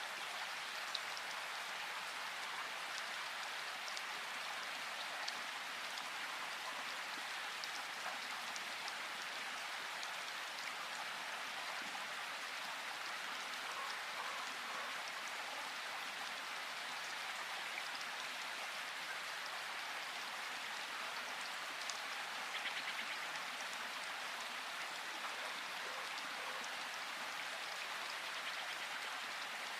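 Steady rain falling in a forest, an even hiss of rainfall with scattered single drops striking close by.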